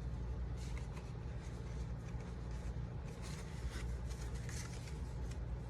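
Cardstock being handled and rubbed on a desk: short scattered rustles and scrapes of paper, over a steady low hum.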